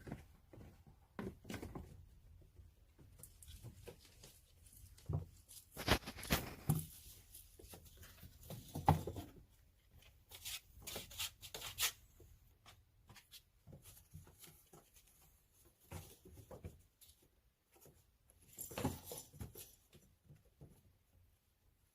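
Kittens moving about and playing: irregular scratching, rustling and light taps, busiest in the middle and again near the end.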